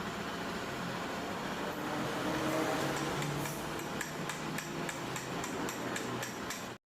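A steady mechanical hum, joined in the second half by a run of light, sharp metallic taps, then cut off abruptly near the end.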